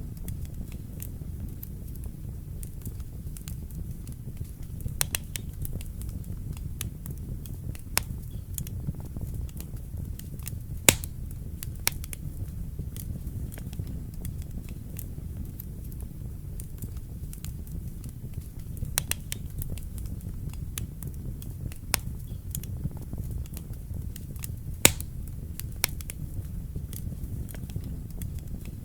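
Wood fire burning in a fireplace: a steady low rumble with frequent sharp crackles and pops, two of them much louder, about eleven seconds in and near twenty-five seconds.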